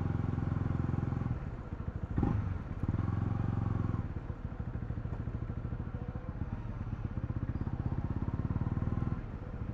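Honda CL250's single-cylinder engine running while riding, the throttle easing off about a second in and picking up again, with a brief sharp sound just after two seconds. It runs steadily at part throttle and eases off once more near the end.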